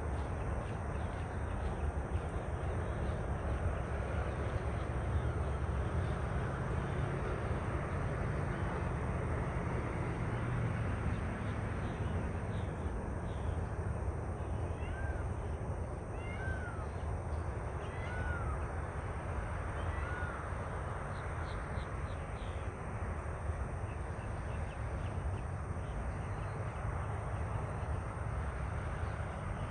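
Four short mewing animal calls, each rising and falling, about a second apart midway through, over a steady low outdoor rumble.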